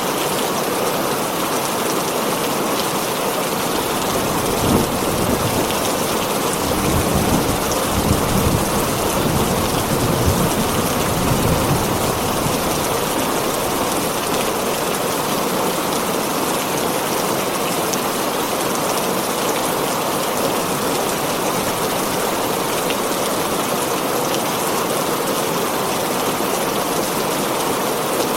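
Heavy rain drumming steadily on a tin roof, with a low roll of thunder rumbling from about five seconds in until about twelve seconds.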